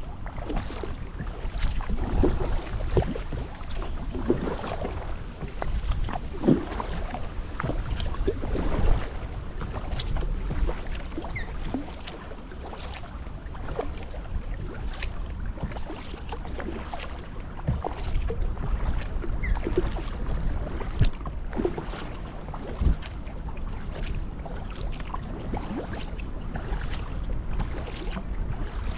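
Kayak being paddled: water splashing and dripping from the paddle blades, with irregular small knocks, over a low wind rumble on the microphone.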